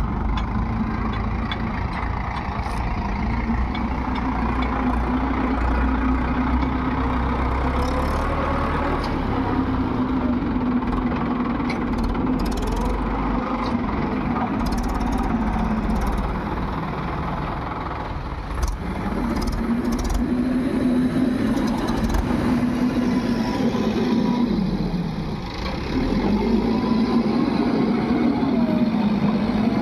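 Diesel engine of a JCB backhoe loader working under load while loading soil. The engine pitch drops twice, about two-thirds of the way through and again near the end, then picks back up, with scattered light clicks and knocks.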